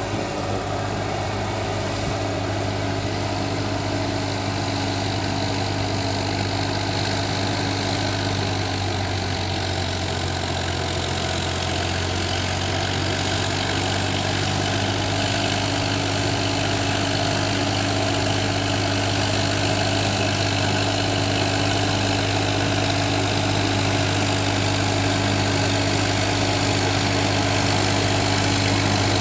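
Sonalika RX 42 tractor's diesel engine running steadily, slowly getting louder.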